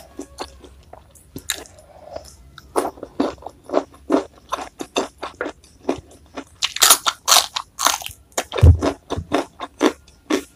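Close-miked crunching and chewing of crisp food: a run of sharp crunchy bites that grow louder and come thick and fast about two thirds of the way through, with a couple of low thuds near the end.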